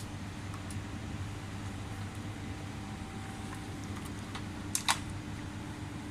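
Steady low mechanical hum, with a few light clicks and two sharper clicks close together near the end.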